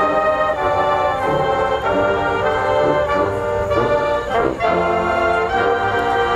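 HBCU marching band brass section playing loud sustained chords, trombones and trumpets, with drums underneath.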